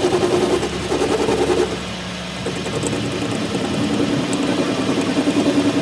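Tractor engine running steadily with a fast, even pulse; it eases off about two seconds in and then builds back up.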